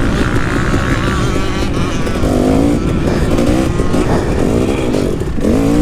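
KTM 250 SX single-cylinder two-stroke motocross engine revving under throttle while riding, its pitch rising and falling several times as the rider works the throttle and gears, dropping sharply about five seconds in and then climbing again.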